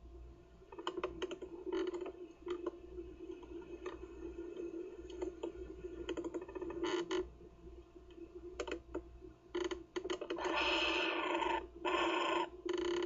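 Irregular quick clicks and scratches, then two loud harsh calls from a kookaburra chick, the first about ten and a half seconds in lasting about a second, the second shorter about twelve seconds in.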